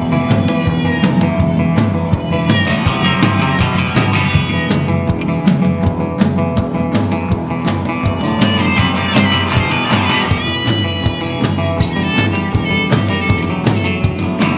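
Rock band playing: electric guitar over bass and drum kit, with a steady drum beat.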